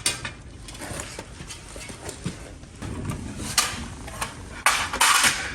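Footsteps across a workshop floor with scattered knocks and taps, and a louder clatter about five seconds in.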